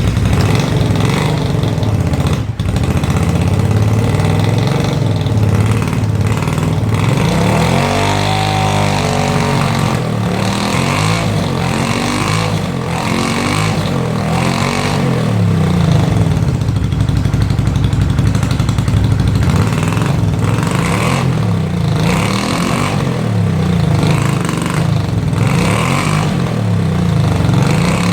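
1995 Honda Magna 250cc V-twin engine running on choke just after a cold start, heard close to its muffler, with the revs rising and falling repeatedly.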